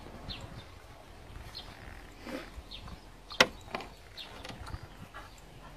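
Garden birds chirping in short, high calls, with a single sharp click about three and a half seconds in.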